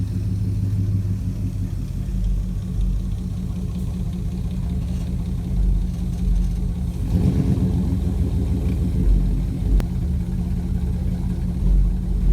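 2000 Dodge Durango's 4.7-litre V8 running at low speed, growing louder and fuller about seven seconds in, with a single sharp click near the ten-second mark.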